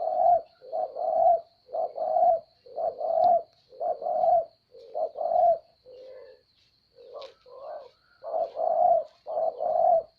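A bird crowing in a long run of short, low two-part calls, about one a second, with a brief break about six seconds in.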